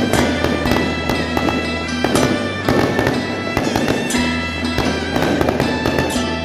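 Firecrackers crackling in a fast, irregular barrage of sharp bangs over loud procession music.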